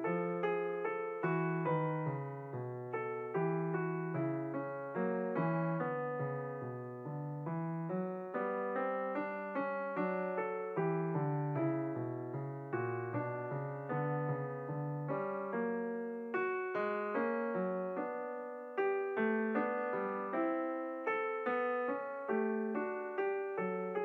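Background piano music: a steady run of single notes and chords, each struck and then fading.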